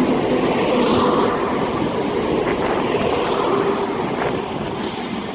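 ScotRail Class 170 Turbostar diesel multiple unit running into the platform, a steady rumble with a faint steady hum, slowly getting quieter as it slows.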